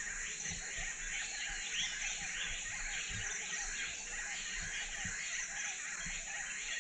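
Early-morning chorus of many birds chirping and calling at once over a steady high insect buzz, with a few faint low thuds now and then.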